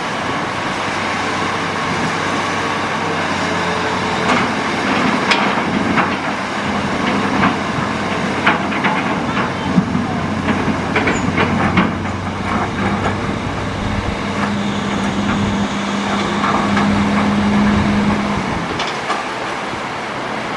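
Hitachi Zaxis excavator running steadily, with a run of sharp clanks and knocks through the middle. Near the end the engine note strengthens and holds for a few seconds before dropping back.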